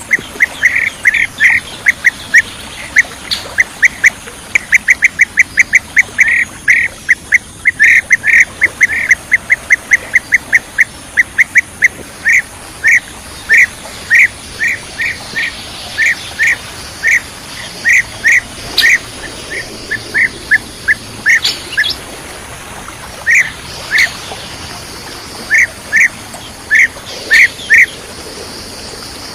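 Bee-eater calls: a long series of short, clipped 'kirik' notes, rapid and close together at first, then spreading out into single and paired calls with pauses toward the end. A bird-call recording of the kind played as a lure to trap bee-eaters.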